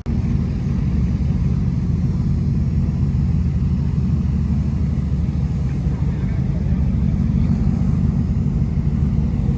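A vehicle engine running steadily, heard as a constant low rumble.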